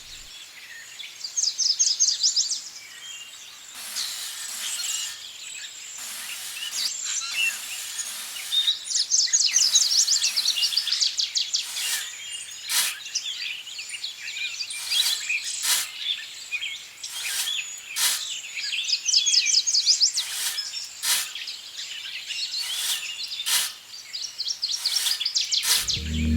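Birds chirping, with fast high trills in several spells and many short, sharp chirps in between.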